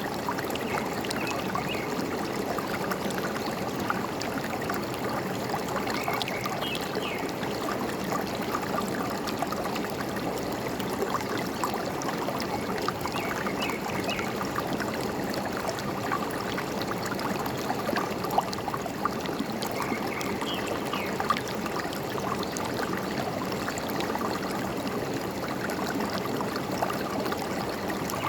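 Forest stream babbling and trickling steadily over stones. A bird's short chirps come in faintly above the water about every seven seconds.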